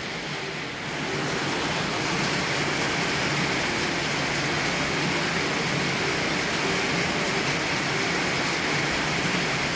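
Steady rain of an arriving thunderstorm, an even rushing hiss that swells slightly about a second in.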